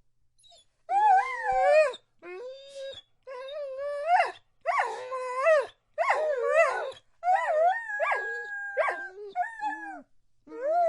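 A dog howling in a string of short, wavering howls, each about a second long, their pitch bending up and down, with brief breaks between them. About eight seconds in, a second, steadier howl overlaps.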